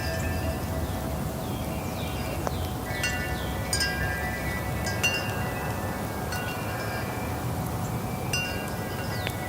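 Wind chimes ringing as they are knocked together, with irregular clusters of strikes every second or two whose high tones ring on, over a steady low rumble.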